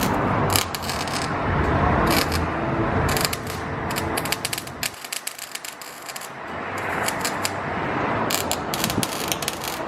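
Metal hand tools clicking and rattling in repeated irregular clicks, quieter for a moment mid-way.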